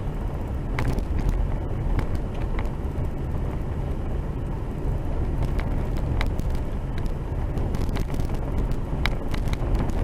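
A vehicle driving, heard from inside the cabin: a steady low road rumble with scattered knocks and rattles.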